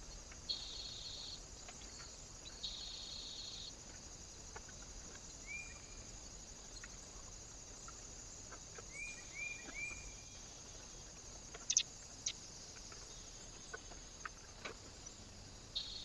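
Small birds calling at a bird feeder: short rising chirps in twos and threes, and two longer buzzy calls near the start. Several sharp clicks come in the second half, over a steady high hiss.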